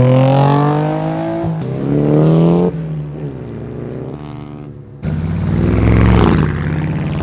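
A car accelerating hard past, its engine climbing in pitch with quick upshifts about a second and a half and nearly three seconds in, then fading. About five seconds in a second, deeper-sounding car passes loudly.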